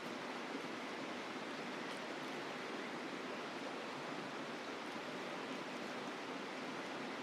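Steady rushing of a mountain river, with a few faint crackles from a campfire.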